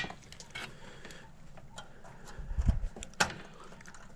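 Scattered small clicks and taps of hands working wire connectors onto terminals, with a dull knock about two and a half seconds in and a sharp click just after it.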